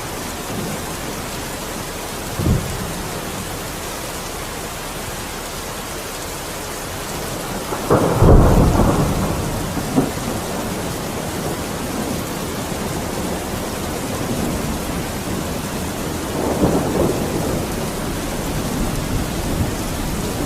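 Freezing rain falling steadily, a continuous even hiss. Low rumbles rise over it several times: a short one early, the loudest about eight seconds in with a sharp crack soon after, and another near the three-quarter mark.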